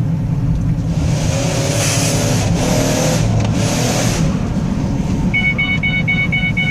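2005 Ford Escape engine running hard under floored throttle, heard from inside the cabin, its pitch climbing midway while the transmission slips and skips gears, with no power getting through. A rapid repeating electronic chime starts near the end.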